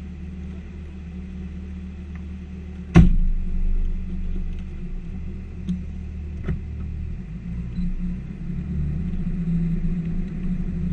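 P38 Range Rover's engine running with a steady low rumble, heard from inside the cabin. About three seconds in there is one sharp knock, after which the rumble is louder, with a smaller knock a few seconds later as the vehicle moves slowly along the rough track.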